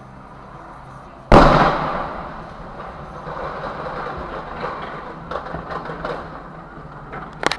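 A vehicle collision: one sudden loud crash about a second in, then a fading clatter with scattered knocks, and a sharp knock near the end.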